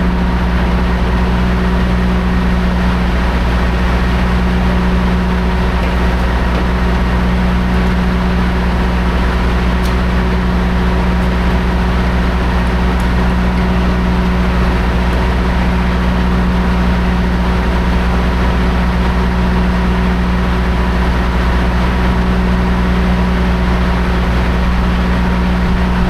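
Semi-truck diesel engine droning steadily at a constant speed, its pitch unchanging.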